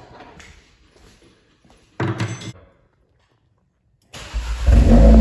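A single thud about two seconds in. After a moment of dead silence, a Volkswagen Golf R's turbocharged four-cylinder engine comes in loud and steady through a new Borla valved cat-back exhaust near the end.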